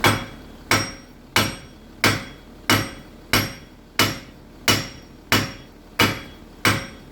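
Steady, rhythmic hammer blows, about three every two seconds, on a seized Jaguar XF front wheel hub that has been heated to break it free. Each strike rings briefly like metal.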